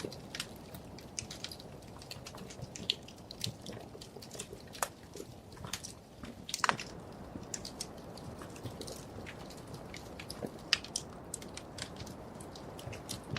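Wood fire crackling: frequent irregular sharp pops and snaps over a soft steady low hiss of the burning logs, one snap standing out a little past the middle.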